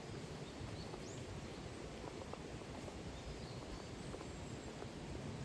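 Faint outdoor ambience: a steady low hiss and rumble, with a few faint, brief high bird chirps.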